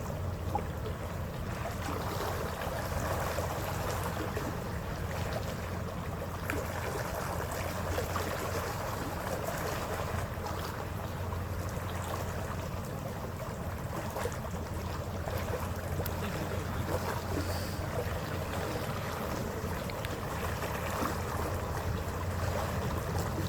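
Passenger ferry under way: a steady low engine hum under the wash of water and wind along the hull.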